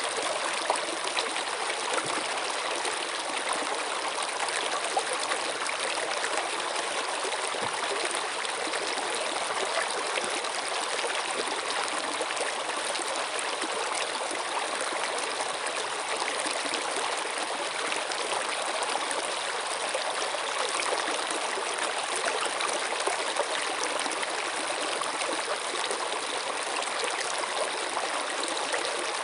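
Water running in a stream or small cascade: a steady rushing and splashing with small droplet splashes scattered through it.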